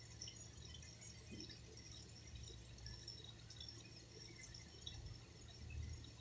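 Faint water dripping and trickling, small scattered drops over a low steady hum.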